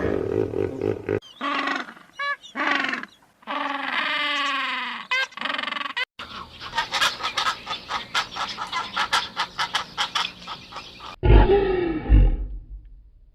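A string of different animal calls, joined with abrupt cuts: short calls, then a long call sliding down in pitch, then a fast run of pulsing grunt-like sounds, and a deep loud call near the end.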